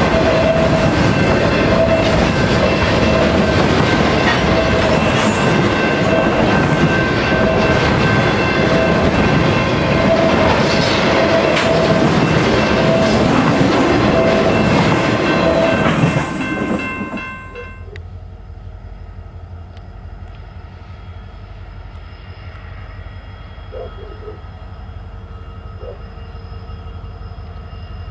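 Freight train of truck trailers on flatcars rolling close by, its wheels rumbling and clacking over the rails with steady squealing tones on top. After about 17 seconds the sound drops abruptly to a much quieter, steady distant rumble.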